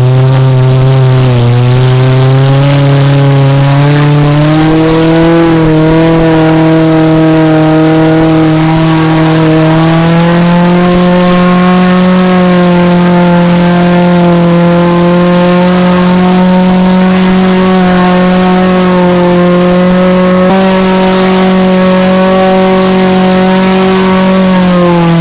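Car engine running hard at high revs, its pitch climbing in steps over the first ten seconds, then held steady for most of the rest and easing off near the end.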